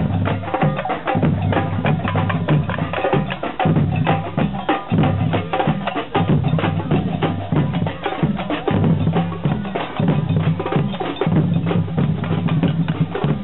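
Procession band drumming: rapid, dense drum and percussion strikes, with a low pitched line coming in phrases of about a second.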